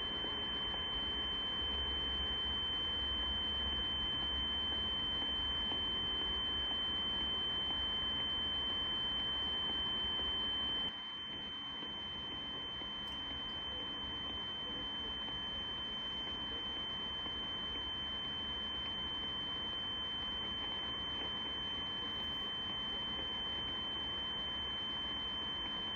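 A steady high-pitched tone coming through a CB radio's speaker over hiss: someone holding a continuous tone on the channel. About eleven seconds in the background noise drops a little while the tone carries on unchanged.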